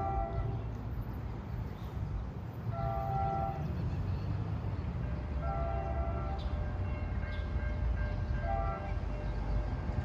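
A train horn sounding in repeated blasts about every three seconds, one of them shorter, over the steady rumble of a train running.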